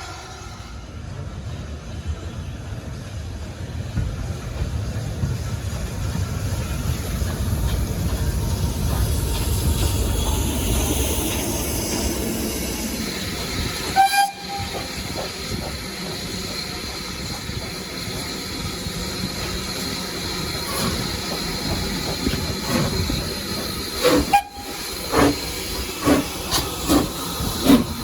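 Steam locomotive working along the line: a heavy rumble builds as a train draws near, with a short whistle toot about halfway. Near the end the exhaust beats come in, about two sharp chuffs a second, as a locomotive works hard.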